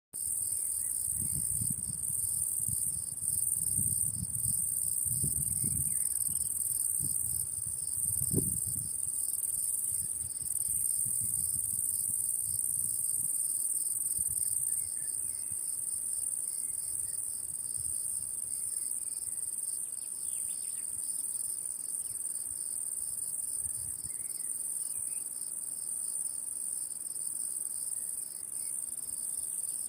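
Crickets singing without pause: a steady high trill with a lower, rapidly pulsing trill beneath it. Low rumbling bumps come and go during roughly the first ten seconds.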